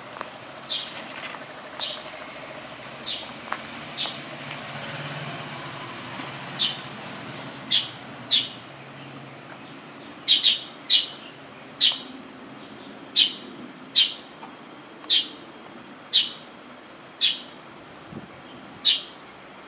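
A small songbird calling, a short sharp chirp repeated over and over, a few scattered at first and then about once a second, over a steady background hiss.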